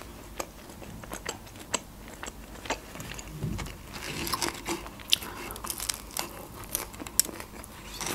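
Close-up chewing of Turkish pide with a baked crust: crunchy bites and chewing heard as many short, sharp clicks.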